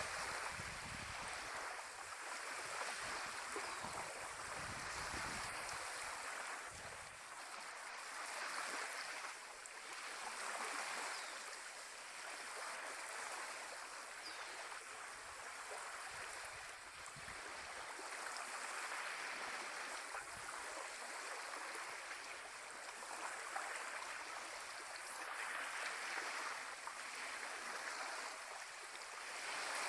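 Small Caribbean Sea waves washing against the shore, a steady wash that swells and ebbs every few seconds. Wind buffets the microphone with low rumbles during the first several seconds.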